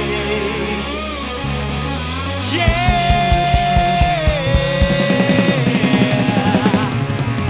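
Rock band playing, with a long held note starting about a third of the way in and dropping in pitch just past the middle, over a quick run of drum hits that settles into a steady beat.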